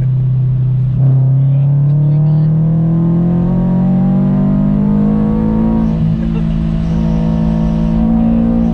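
Supercharged 2018 Subaru BRZ's flat-four engine, with a catless header and single-exit exhaust, pulling hard at full throttle: the note rises steadily for about five seconds, dips at an upshift about six seconds in, then pulls on again in the next gear.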